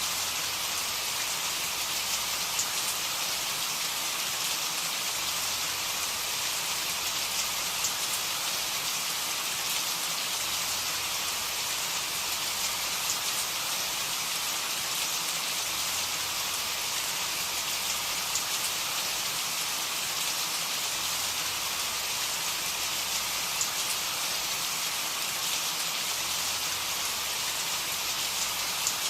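Steady rain falling: an even hiss, with a few louder drops ticking out of it now and then.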